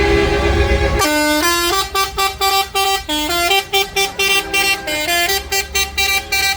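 Low engine rumble, then from about a second in a musical vehicle horn plays a quick tune of short notes stepping up and down in pitch.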